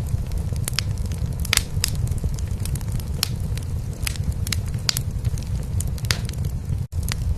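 Wood fire crackling in a fireplace, with sharp pops every fraction of a second, over a cat's steady low purring. The whole sound cuts out for an instant near the end.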